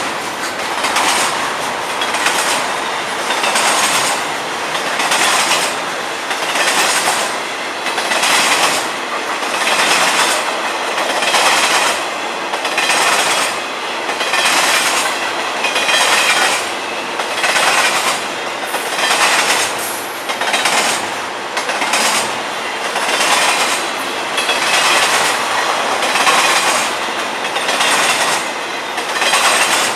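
Freight cars of a long Florida East Coast train rolling past, their wheels clacking over the rail joints in a steady rhythm that swells about every second and a half.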